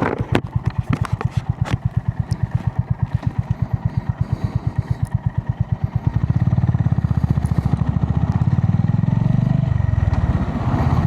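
Honda GB350S single-cylinder engine idling with an even thump of about eight beats a second, then pulling away about six seconds in, running louder and faster, with a brief dip near the end.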